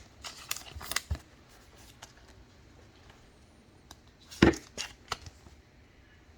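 Trading cards and packs handled on a tabletop: light rustles and taps in the first second, then a sharp knock about four and a half seconds in, followed by two lighter clicks.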